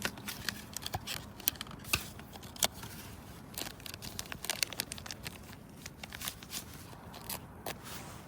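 Paper or wrapper crinkling and rustling as it is handled, in a run of short, irregular crackles.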